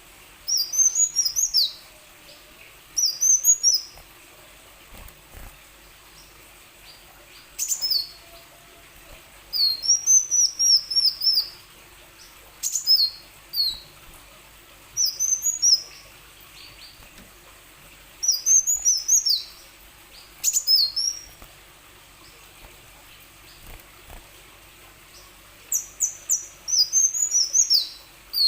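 Kolibri wulung sunbird singing in short bursts of rapid, high, arching chirps, a phrase of one to two seconds every few seconds.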